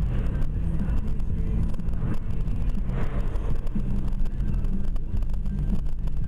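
Steady engine drone and road noise of a moving car.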